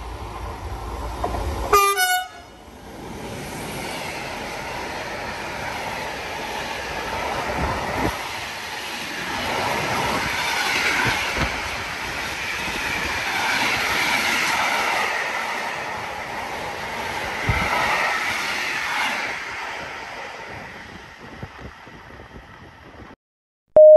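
Short horn blast from the E483 electric locomotive about two seconds in, then its intermodal freight train rolling past, the rumble and clatter of the wagons swelling and fading away over some twenty seconds.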